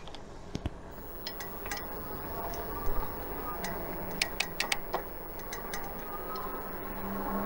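Irregular light clicks and ticks from a fat-tire electric bike being ridden, over a steady low noise of rolling and wind. The clicks bunch together a little past the middle.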